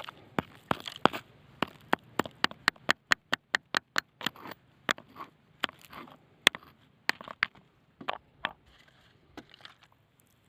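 Stones knocking and crunching against one another in a rapid, irregular run of sharp clicks, several a second, which thins out and stops about a second before the end.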